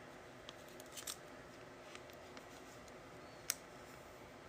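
Faint, sparse clicks and taps of trading cards being handled and shuffled, with one sharper click about three and a half seconds in, over quiet room tone.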